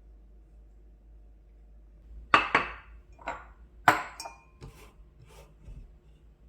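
Hard objects being handled and set down: a run of about seven sharp clinks and knocks, some with a brief ring, the loudest about two and a half and four seconds in.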